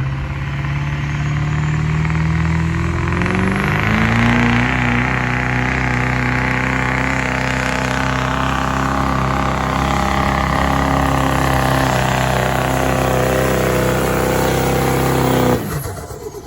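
Diesel pickup truck engine under heavy load on a truck pull, rising in revs a few seconds in and holding steady high rpm, then the throttle is cut suddenly near the end.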